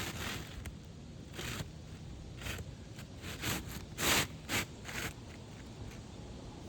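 New asphalt shingle being slid into place under the course above, giving a series of short scrapes, the loudest about four seconds in.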